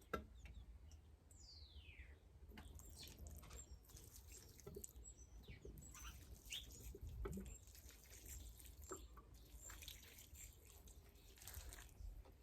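Faint songbird calls: a whistle falling in pitch about a second and a half in, then scattered short high chirps. Occasional soft clicks sound over a low rumble.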